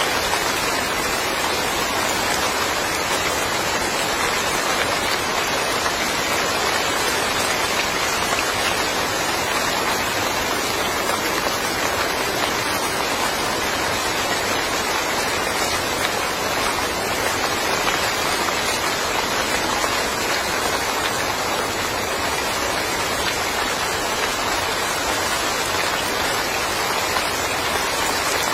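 Steady rain falling on a yard, an even, unbroken hiss of drops.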